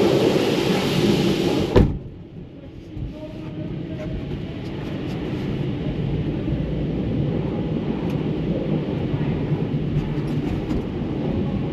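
Loud hissing spray of a truck wash through an open truck cab door, cut off by the door slamming shut about two seconds in. A steady low rumble follows, muffled inside the closed cab.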